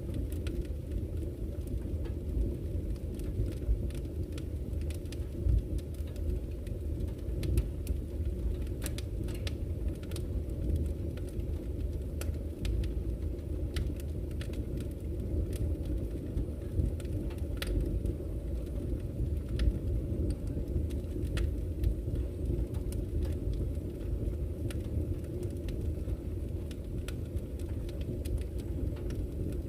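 Wood campfire crackling, with irregular sharp pops and snaps several times a second, over the steady low rush of a flowing river.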